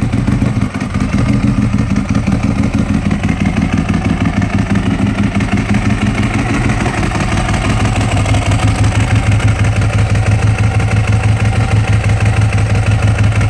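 Ducati 1098's L-twin engine idling through a Scorpion Red Power aftermarket exhaust, with a steady, rapid, lumpy beat. The low note grows stronger about eight seconds in.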